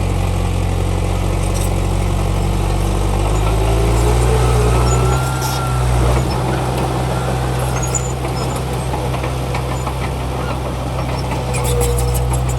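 Heavy diesel construction machinery running steadily, its engine note shifting about four to five seconds in, with brief thin squeals over it.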